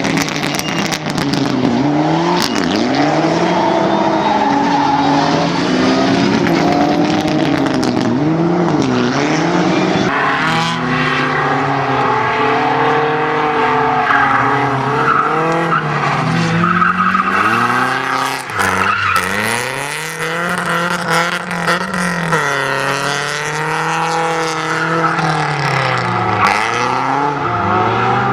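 Car engine revving up and falling back again and again as the car is driven hard, with tyres squealing at times.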